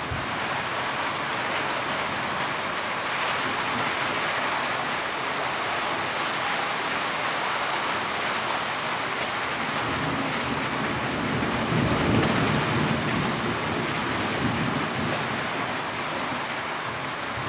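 Heavy rain falling steadily on a surface, with a low rumble like distant thunder swelling about two-thirds of the way through.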